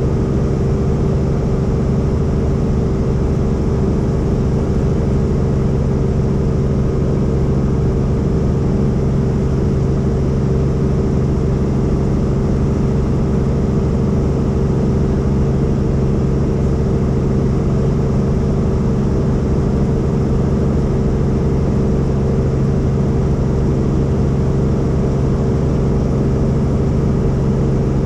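Helicopter engine and rotor running steadily, a loud, even drone with a constant hum.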